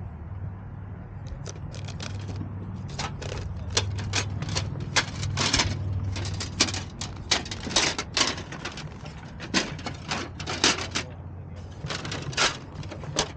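Kawasaki Z900RS motorcycle engine running with a steady low hum, overlaid from about a second and a half in by many irregular sharp clicks and crackles that come thick through the middle.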